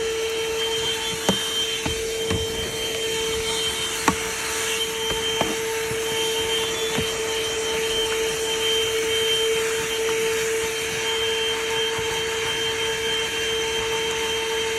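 Handheld car vacuum running steadily with an even, pitched hum over a hiss of suction. A few short knocks come in the first six seconds.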